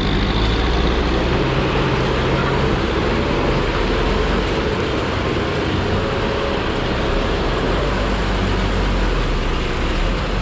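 Busy street traffic: vehicle engines running steadily over a constant road noise.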